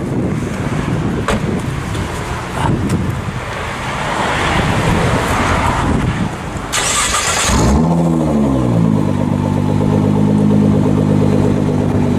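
Wind noise with a few knocks, then a starter whirring for about a second before the Nissan GT-R's twin-turbo V6 catches. The engine flares briefly in revs, then settles into a steady idle, heard at the exhaust tips.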